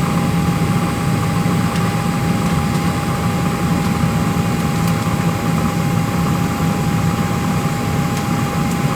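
Steady cabin noise of a Boeing 737-700 on the ground, a constant hum with a steady high whine running through it.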